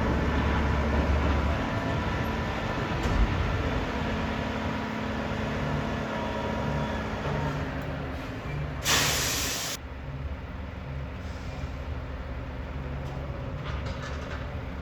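Roll-off dumpster truck's diesel engine running steadily, with a loud hiss of air from the air brakes lasting about a second, around nine seconds in.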